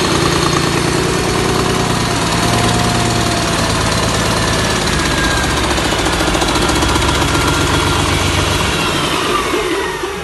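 1996 Cummins M11 CELECT 10.8-litre inline-six diesel running on a test run, a steady loud diesel clatter with a thin high whine above it. Near the end the revs fall away and the sound dies down.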